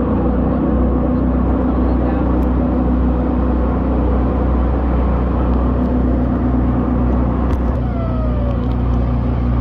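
Jet boat's engine running steadily and loudly, heard from on board through a phone sealed in a waterproof pouch.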